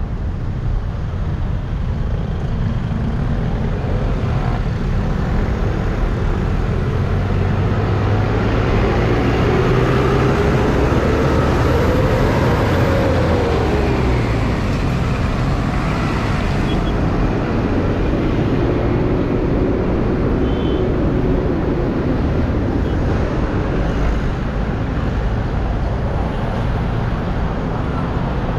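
Steady road traffic noise with a heavy low rumble, heard while riding along a road; a passing vehicle swells louder and its engine pitch bends about ten to fourteen seconds in.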